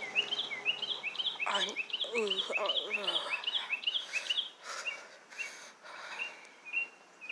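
Small bird chirps repeated quickly and evenly, about three a second, that thin out after about four seconds into sparser single notes. A short sliding voice-like sound comes about two seconds in.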